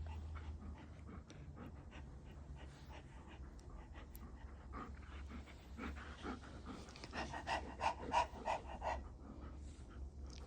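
Dog panting, with a stronger run of quick, even pants about five a second in the second half, over a low steady hum.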